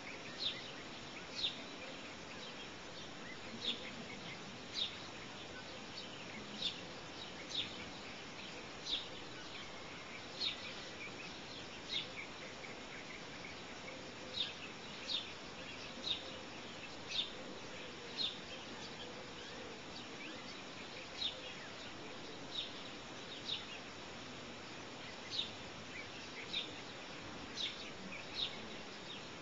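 A bird chirping repeatedly: short, high notes, each falling in pitch, coming about once a second at uneven intervals over a steady background hiss.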